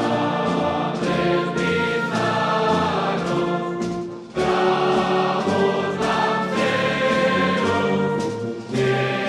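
Background music: a choir singing sustained chords over an orchestra.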